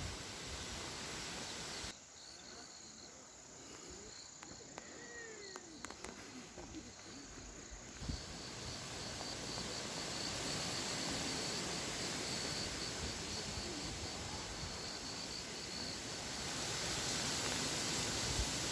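Forest ambience: a steady hiss with an insect chirping in a fast, even pulsed series high in pitch, and a few faint gliding calls a few seconds in. The background hiss drops suddenly about two seconds in and comes back about eight seconds in.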